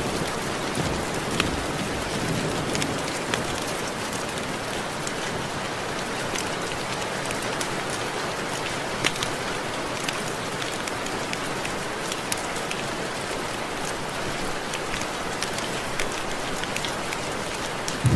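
Steady rain with many individual drops tapping sharply, raindrops hitting window glass.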